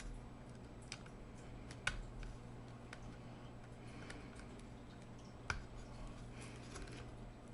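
A few small, sharp clicks and taps of a tool and fingers on the laptop's plastic parts while working loose the cooling fan's push-in wire connector, spaced a second or more apart, over a faint steady low hum.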